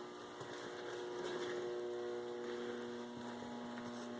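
Steady electrical mains hum, a low even buzz, with a few faint clicks.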